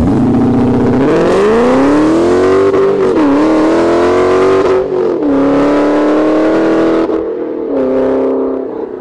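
Car engine accelerating hard, its pitch climbing and then dropping back at a shift about three seconds in and again about five seconds in, settling lower and fading near the end.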